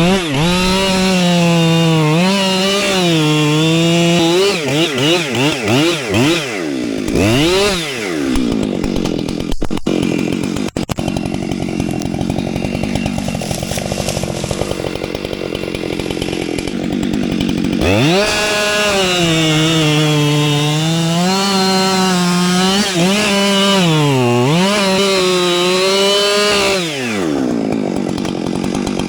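Two-stroke chainsaw cutting wood at high revs, its pitch repeatedly dipping and recovering as the chain loads up in the cut. In the middle stretch the steady note gives way to a rougher noise, then it runs at high revs again before dropping off near the end.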